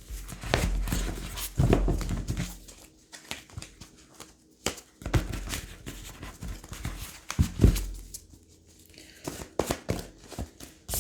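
Tarot cards being shuffled and handled: papery rustling with several sharp card flicks and taps, the loudest about halfway through and again a few seconds later.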